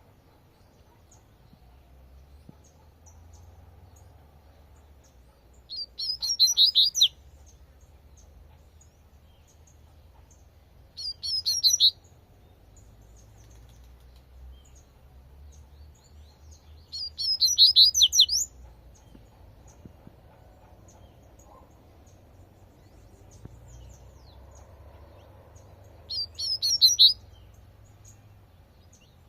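Double-collared seedeater (coleirinho) singing its 'tui-tui' song: four short phrases of rapid high notes, each about a second long and several seconds apart, over a faint low rumble.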